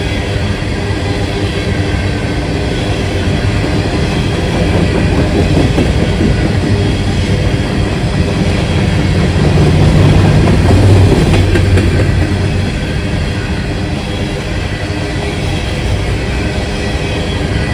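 Freight train rolling past, its wheels clacking over the rail joints. The sound swells louder about halfway through, then eases.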